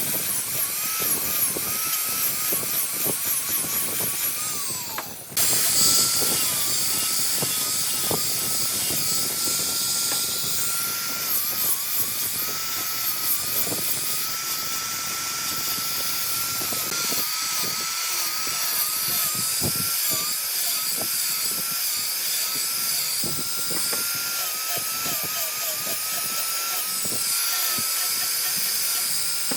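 High-speed power tool motor whining on wood, its pitch dipping and recovering as it takes load, with scraping and clicking from the work. The sound breaks off briefly about five seconds in, then resumes.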